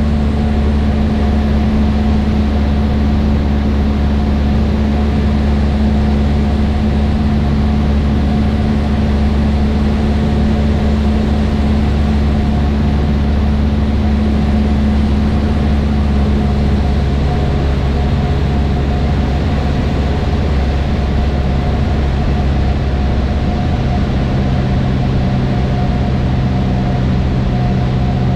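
Cessna 152's four-cylinder Lycoming engine and propeller droning steadily, heard inside the cockpit. Its note changes in the second half as the engine speed shifts.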